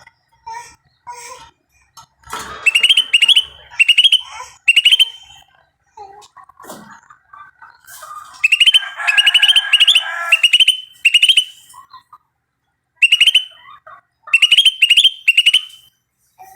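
Birds calling in repeated short bursts of rapid, high-pitched notes, in groups of three or four, with a noisier chattering underneath twice.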